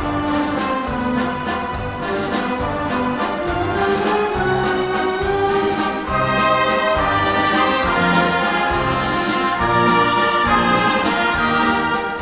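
A pop-symphonic orchestra playing live, brass (trumpets and trombones) to the fore over a steady beat.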